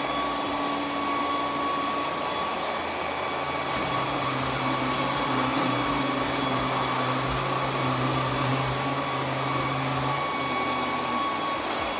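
Roborock Q10V+ robot vacuum running steadily as it vacuums the floor, a constant motor and suction whir with a lower hum that comes in about four seconds in and drops out near ten seconds.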